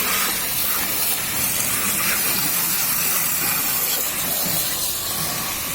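Steady hiss of a high-pressure washer's water jet spraying a car.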